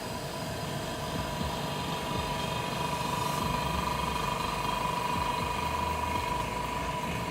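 LCD vacuum laminator running through its cycle, a steady machine hum with a whine that grows louder about three seconds in and eases near the end.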